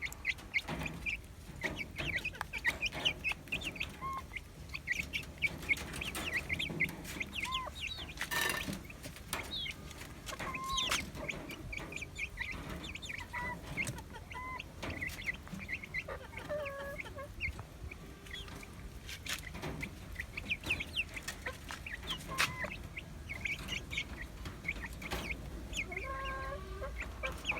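A flock of weeks-old Noiler chickens clucking and cheeping continually while they feed, with many short high chirps and calls scattered throughout.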